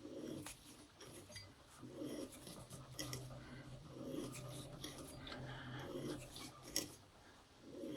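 Hand tap cutting threads into an aluminum engine mount, turned by hand: faint scraping and rubbing with small clicks.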